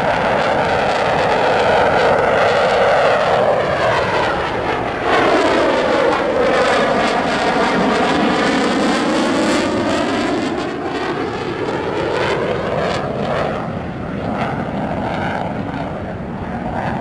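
Eurofighter Typhoon's twin EJ200 turbofan jet engines as the fighter flies past: a loud, continuous roar whose tone sweeps down and back up as it passes. It eases off somewhat in the last third.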